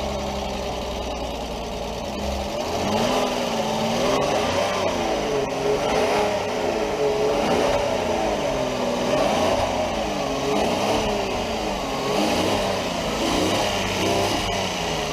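2001 Porsche Boxster 2.7-litre flat-six engine idling, then revved up and let fall back over and over, about every second and a half, before settling back to idle near the end.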